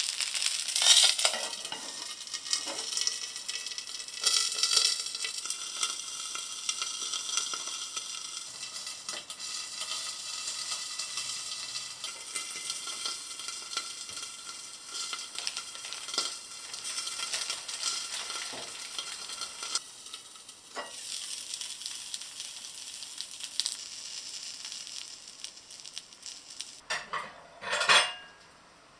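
Food sizzling in a frying pan while it is stirred, with occasional clicks of a utensil against the pan. Near the end there are a few louder clatters, then the sizzling stops.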